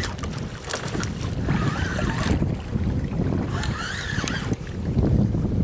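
Wind buffeting the microphone with a steady low rumble, and two short bursts of a higher, wavering sound about one and a half and three and a half seconds in.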